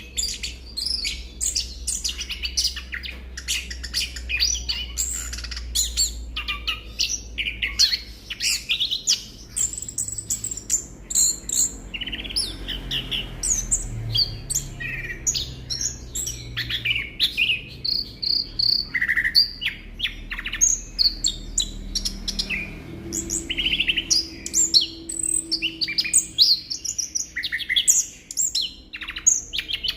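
Orange-headed thrush (anis kembang) singing a fast, unbroken song of varied chirps and trills.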